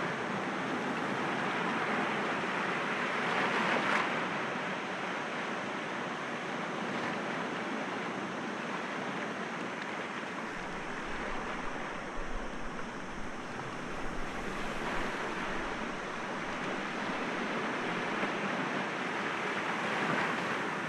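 Sea waves breaking against rocks: a continuous wash of surf that swells to a peak about four seconds in and again near the end. Wind buffets the microphone in the middle, adding a low rumble.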